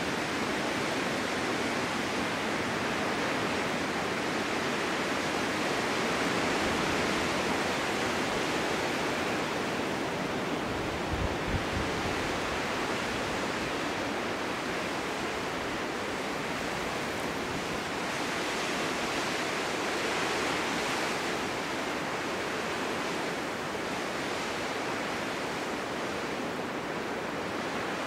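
Steady snowstorm wind: a broad, even rush that swells and eases slowly, with a brief low thump about eleven seconds in.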